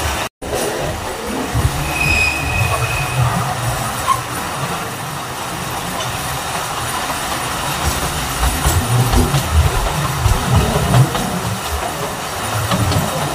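Alishan Forest Railway train running on its narrow-gauge mountain line, the carriage wheels rumbling and clattering steadily over the rails. A short, high wheel squeal sounds about two seconds in.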